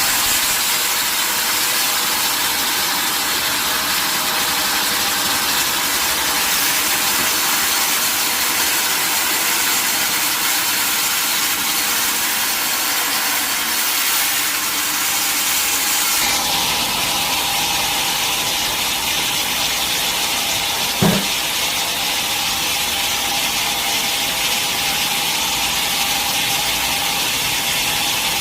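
Sawmill log saw running steadily through a mahogany log, with machinery running underneath. The sound changes character about sixteen seconds in, and a single short knock comes about twenty-one seconds in.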